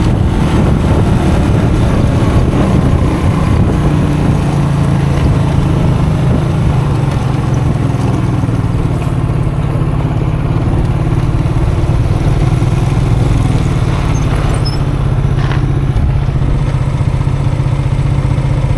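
Custom motorcycle engine running at a steady low pitch while riding, over a constant noisy rumble of wind and riding noise.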